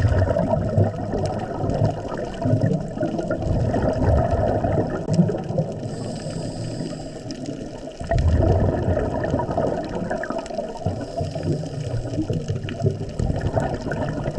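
Scuba diver's exhaled breath bubbling out of the regulator underwater: two long exhalations, one at the start and a second about eight seconds in.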